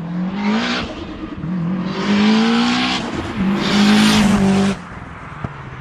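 Modified Mitsubishi Lancer Evolution VIII MR's turbocharged 4G63 four-cylinder accelerating hard, its note climbing in three pulls with short dips at the gear changes and a rushing hiss over each pull. It is loudest about four seconds in, then the throttle closes and the sound drops away sharply.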